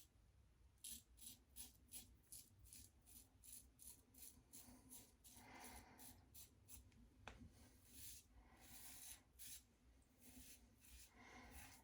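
Blackbird safety razor scraping through lather and stubble on a first shaving pass: faint, quick short strokes about three a second, with a few longer scrapes between them.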